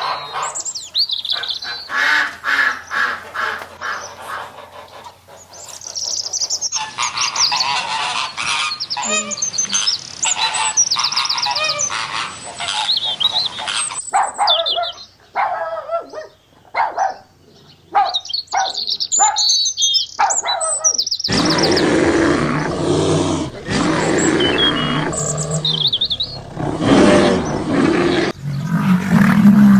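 A string of short animal clips cut together, mostly bird calls, changing abruptly every several seconds.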